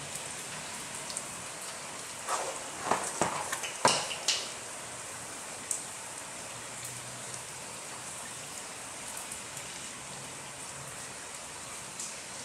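Steady hiss of rain falling outside the garage. About two to four seconds in comes a short cluster of knocks and clatter as tools and a plastic drain pan are handled.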